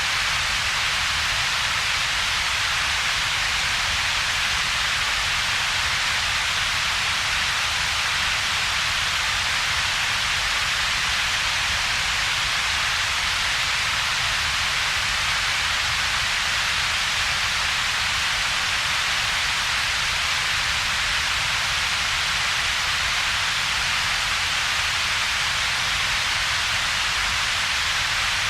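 Computer-generated steady noise with two peaks in its spectrum: a hiss centred in the upper mids and a weaker low rumble beneath, with a gap between them. It is unchanging throughout.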